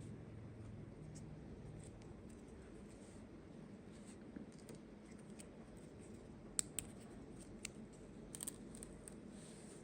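Quiet handling of small toy and packaging pieces: a few sharp clicks and taps, the loudest about two-thirds of the way in, then a short run of taps and a brief scratch near the end.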